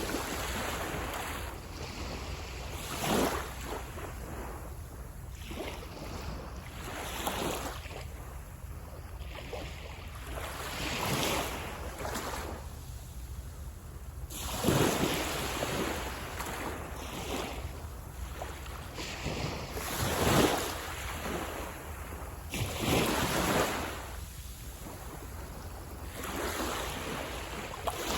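Sea waves breaking and washing up a beach, surging in one after another every few seconds.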